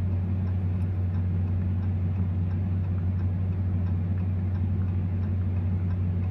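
Steady low drone of a 2024 Ram TRX's supercharged 6.2-litre V8 and drivetrain heard from inside the cab while cruising, with a faint, regular ticking about two to three times a second over it.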